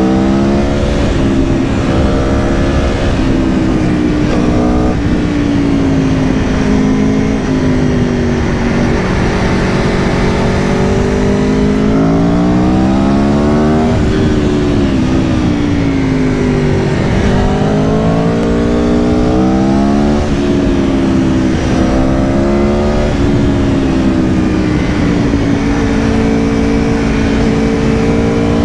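Aprilia Tuono V4 Factory's V4 engine under way, its revs climbing and falling again and again as the bike accelerates, shifts gears and slows, over a steady rush of noise.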